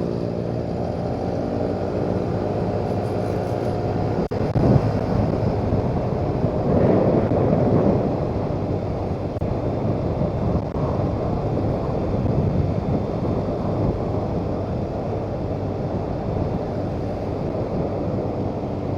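Motorcycle engine running steadily as it is ridden along a road, with wind rumbling on the microphone. A single sharp click about four seconds in.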